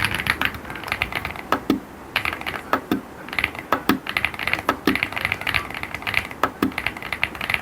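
Typing on an Aula AU75 mechanical keyboard: a fast, uneven run of key clicks, with a short pause about two seconds in and some deeper, heavier strokes mixed in.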